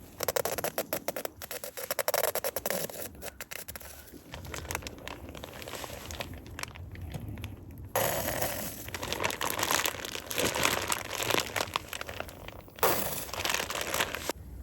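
Rustling and crinkling handling noise, dense with fine clicks. One bout lasts about three seconds, and a longer one starts about eight seconds in.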